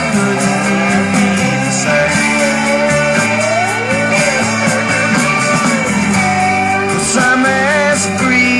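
Rock music: a lead guitar plays sustained, bending and gliding notes over a steady band backing.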